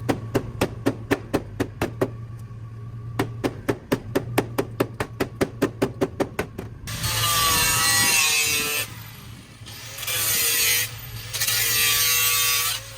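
An angle grinder cuts into sheet-metal bodywork in three long bursts, its pitch wavering as it loads up. Before them comes an even, rapid ticking, about four a second, over a low hum.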